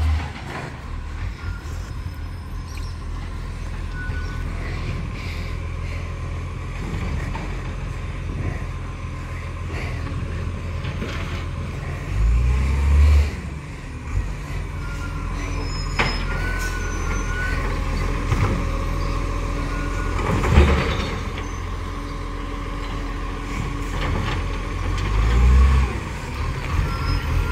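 Garbage truck engine running steadily, swelling louder in short surges three times, with a brief sharp hiss about two-thirds of the way through.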